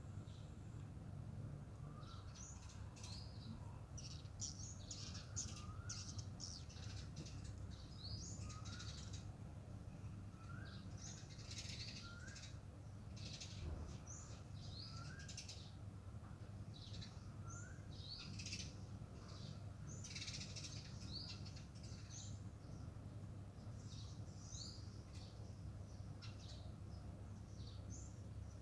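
Birds chirping: a short rising call repeated every second or two, mixed with higher, quicker chirps, over a steady low hum.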